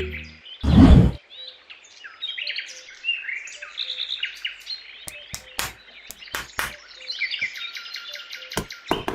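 Small birds chirping and twittering in quick repeated calls, after a short loud whoosh about half a second in. A few sharp clicks or taps come in from the middle, more often near the end.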